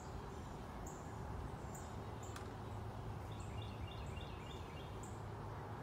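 Quiet farmyard background: small birds chirping, with a short run of quick notes near the middle, over a steady low hum. There is a single sharp click about two and a half seconds in.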